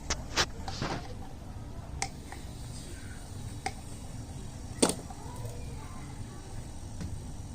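Scattered sharp clicks and knocks of hands working tools and fittings, the loudest about five seconds in, over the steady low hum of the refrigerator's compressor running while it is charged with R600a gas.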